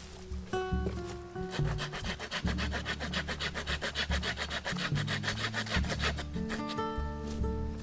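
Hand saw cutting through wood in a quick run of even rasping strokes, starting about a second and a half in and stopping near the end, over soft acoustic guitar music.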